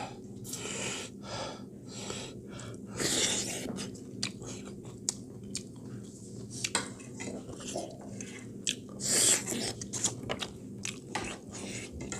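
Close-up chewing and eating noises from people eating spicy pork curry: irregular wet chewing with scattered small clicks, and a couple of louder breathy bursts about three seconds and nine seconds in.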